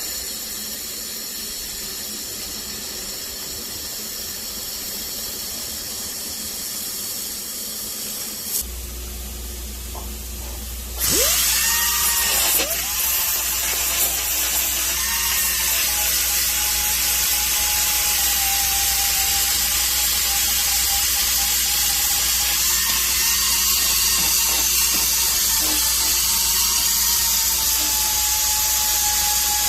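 A steady hiss, then about eleven seconds in a handheld power tool starts up and runs steadily at high speed with a whining tone.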